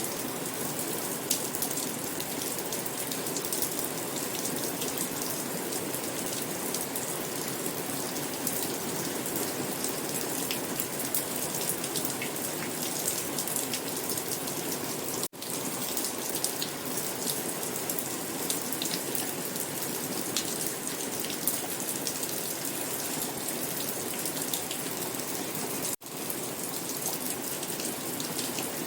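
Steady rain falling, with many close drops ticking sharply on a surface. The sound cuts out for a split second twice, about halfway through and near the end.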